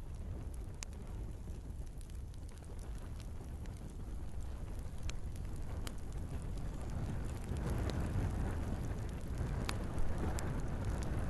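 Wood fire burning in a fireplace: a steady low rumble with scattered sharp crackles and pops of burning logs, growing a little louder in the second half, with the loudest pop near the end.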